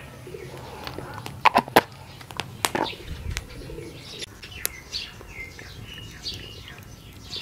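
Birds chirping in short calls, with a few sharp clicks about one and a half seconds in and again just under three seconds in.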